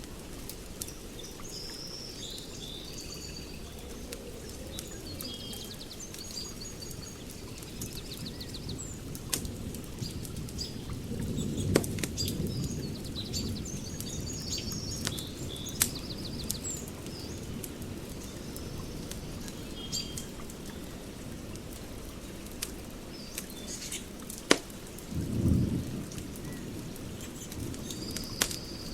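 Wood fire burning: a steady low rush with sharp crackles and pops scattered through it, a few of them louder, while small birds chirp and twitter.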